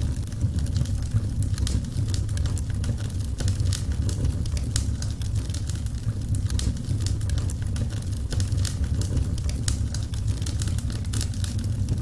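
Burning wood in a fireplace crackling: frequent irregular sharp pops and snaps over a steady low rumble of the flames.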